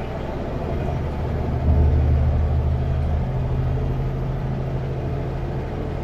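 Kenworth W900L semi-truck running down the highway, a steady low diesel engine drone with road noise. About two seconds in the drone swells noticeably louder and deeper for a second or two, then settles back.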